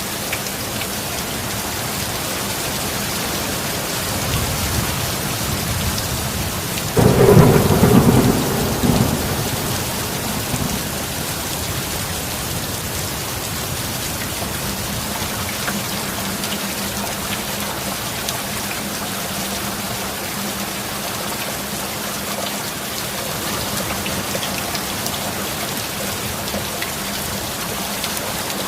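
Steady heavy rain with thunder. A low rumble builds about four seconds in, then a loud thunderclap comes about seven seconds in and rolls away over the next two seconds, with a smaller rumble just after.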